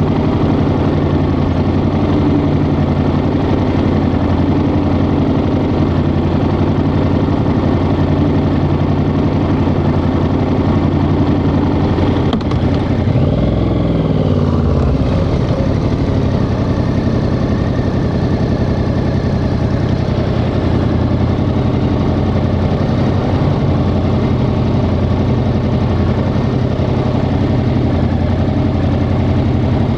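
Yamaha XSR700's 689 cc parallel-twin engine running steadily under the rider. About halfway through, the engine note dips and then rises again once.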